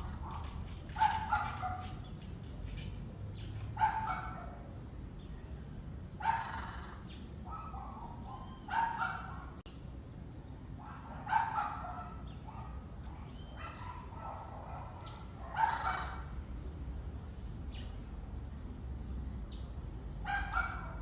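An animal giving short calls, repeated every two to four seconds, over a steady low background rumble.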